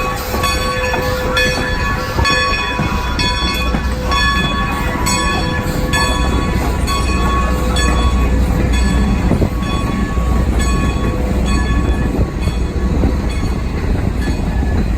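Train running close by with a steady low rumble, overlaid by a pitched metallic ringing that repeats about twice a second and fades away in the second half.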